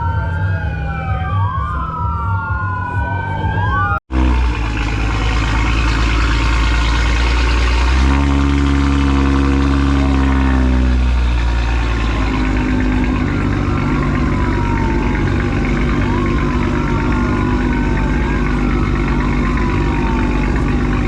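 Police siren wailing in repeated rising and falling sweeps over car engines. About four seconds in the sound cuts out for an instant, then a loud engine running with a deep rumble takes over, and the siren carries on fainter behind it.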